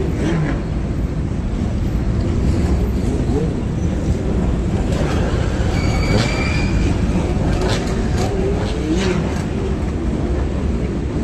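Engines of classic cars and motorbikes running and pulling away, a steady low rumble with short clicks and brief changes in pitch, and a short high tone about halfway through.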